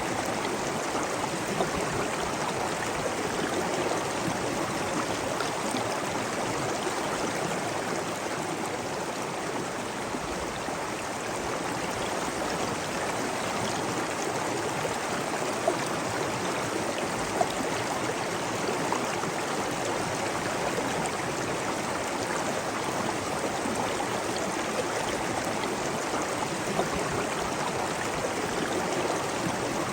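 Steady rush of running water, with a couple of brief louder splashes around the middle.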